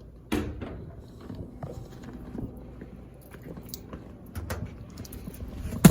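Irregular knocks and clicks of hands and tools working on a laundromat machine, with a sharp knock just after the start and the loudest knock near the end.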